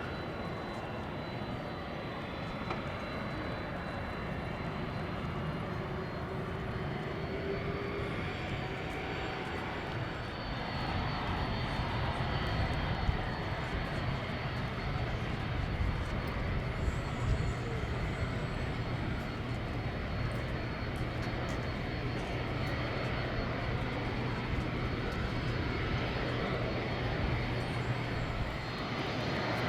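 Jet airliner engine noise. The first third is a distant, steady jet sound. About a third of the way in it gives way to a louder, steady jet engine hum from a Boeing 767-300ER taxiing.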